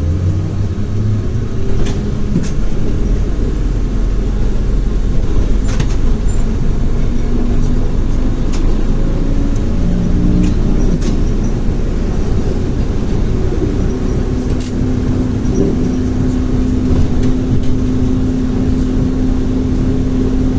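ZiU-682 trolleybus with rheostat-contactor control under way. Its traction motor whine rises at the start as it picks up speed, then the bus runs on with scattered clicks and rattles. A steady hum sets in about two-thirds of the way through.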